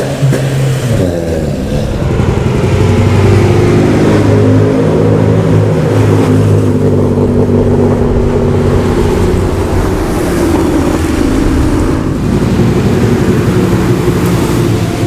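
Loud car engine under load. Its pitch climbs over the first couple of seconds, then holds fairly steady.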